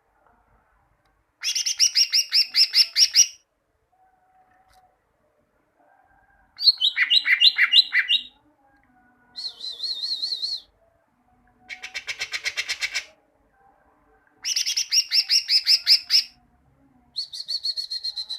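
Green leafbird (cucak ijo) singing: six short bursts of rapid repeated notes, each a second or two long with pauses between, the phrase changing from one burst to the next.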